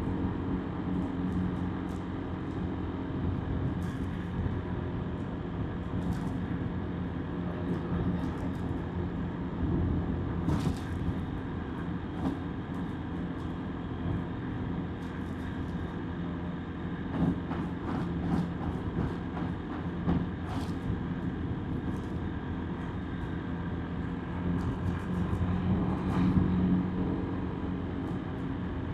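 Motorbike engine running at a steady cruise with road and wind noise, dotted with brief clicks and rattles. It swells louder for a moment near the end.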